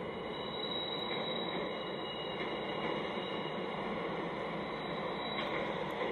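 A train rolling slowly past with a steady rushing rumble. A thin high whine runs over it from about half a second in and stops near the end.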